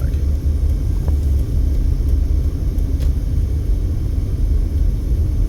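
Steady low road rumble of a car driving at moderate speed, heard from inside the cabin.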